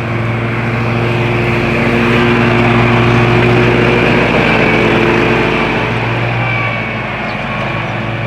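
An engine running steadily at constant speed, growing a little louder around the middle.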